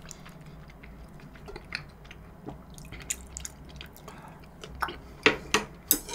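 A person eating close to the microphone: wet chewing with scattered small clicks, and a few sharper clicks near the end.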